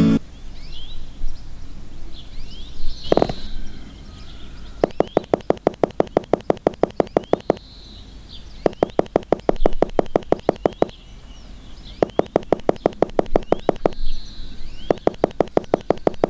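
Four bursts of rapid, even clicking, about nine clicks a second, each lasting around two seconds. A single knock comes about three seconds in, and faint bird chirps sound in the background.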